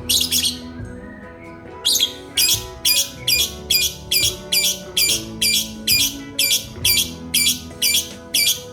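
Shrill, high-pitched animal calls: one at the start, then a rapid, evenly spaced run of short calls about two or three a second from about two seconds in, over background music.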